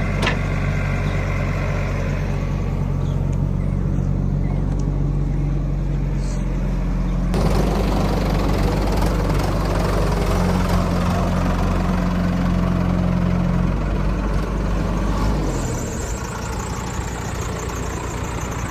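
Heavy machinery diesel engine running with its note changing under varying load. It gets louder and rougher about seven seconds in, runs higher for a few seconds, then settles to a lower, quieter note near the end.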